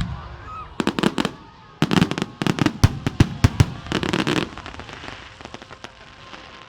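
Fireworks going off: a rapid run of sharp cracks and bangs about a second in, a denser volley from about two to four and a half seconds, then scattered crackles that die away.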